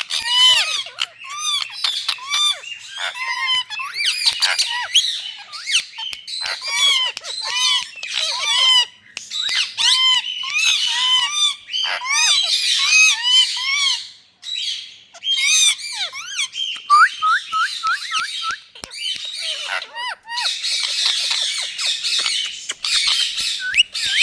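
Indian ringneck parakeet calling: quick runs of short, shrill squawks and chirps, turning into dense overlapping chatter near the end.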